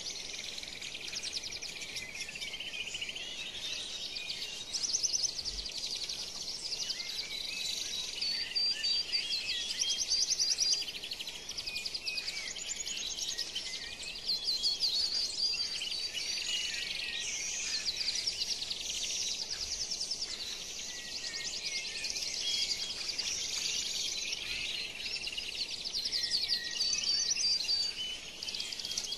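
Birds chirping and trilling: a steady chorus of high-pitched chirps and fast trills that grows louder and softer by turns.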